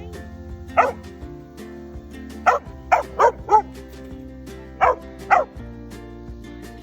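A dog barking in short, sharp yips, seven in all, several in quick succession, over background music with held notes.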